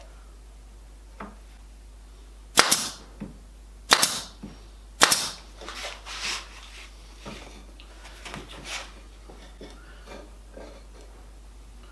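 Pin gun firing three times, each a sharp crack, about a second and a quarter apart, while pinning drawer sides to the rails. Lighter clicks and knocks follow.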